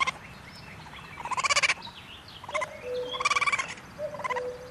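Raccoon chittering: short bursts of rapid, pulsing calls, the loudest about a second and a half in and again just past three seconds.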